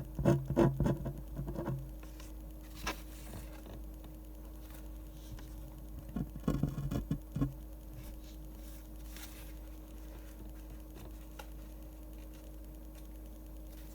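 Pen strokes on paper while drawing manga by hand: two quick runs of taps and scratches, about a second and a half each, one at the start and one about six seconds in, over a steady faint hum.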